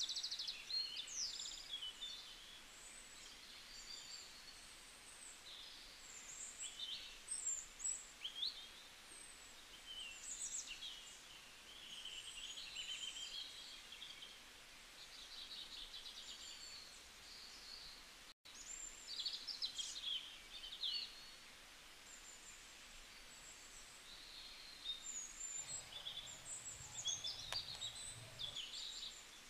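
Small songbirds chirping and twittering in many short, quick calls and trills over a faint steady hiss; the sound cuts out for an instant about two-thirds of the way through.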